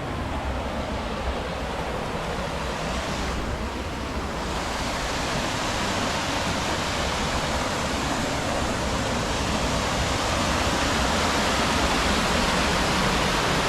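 Waterfall's steady rush of falling water, growing slightly louder through the second half.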